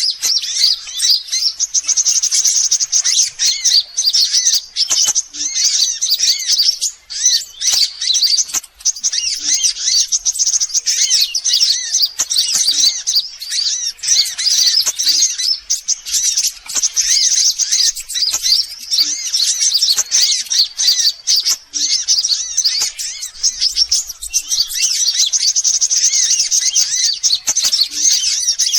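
Sunbirds calling in a dense, continuous stream of rapid high-pitched chirps and twitters: a bird-lure recording used to draw sunbirds in.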